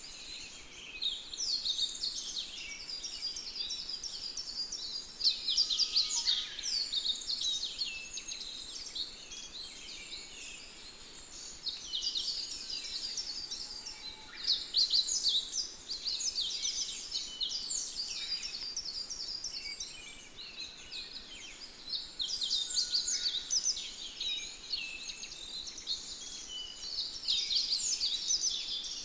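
Many small birds chirping and twittering together, a dense chorus of quick overlapping high calls that swells and eases every few seconds.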